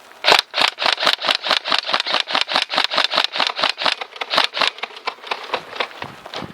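Airsoft gun firing a rapid string of single shots, about five or six a second, fading to weaker shots near the end.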